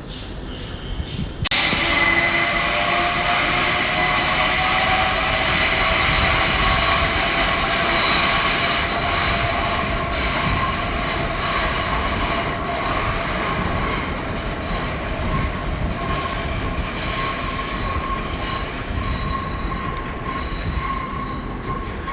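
A pair of coupled Class 387 electric multiple units moving slowly along the platform, with steady high-pitched wheel squeal over the running noise. It starts abruptly about one and a half seconds in and slowly fades toward the end.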